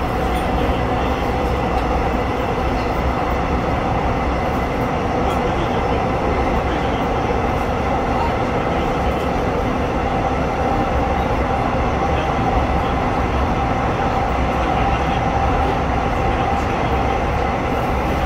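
Seohae Line train running, heard from inside the passenger car: a steady rumble of wheels and running gear with a constant hum over it.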